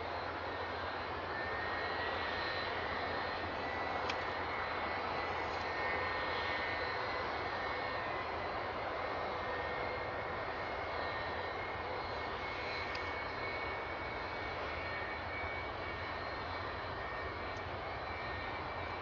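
Jet airliner engine running steadily: an even rushing noise with a low hum beneath and a thin high whine above.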